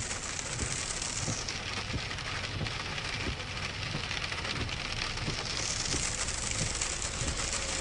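Rain falling on a vehicle, heard from inside the cab: a steady hiss with scattered ticks of drops, over a low steady rumble of the vehicle.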